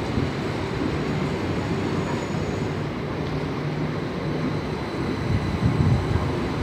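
Train running on the line: a steady rumble that grows louder about five to six seconds in.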